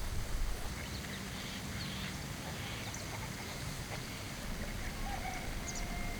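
Outdoor ambience: a steady low rumble with faint, short animal calls scattered through it, and a held call near the end.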